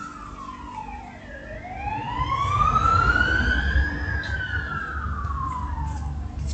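Emergency vehicle siren wailing in slow sweeps, its pitch falling, then rising and falling again, over a low vehicle rumble that grows louder about two seconds in.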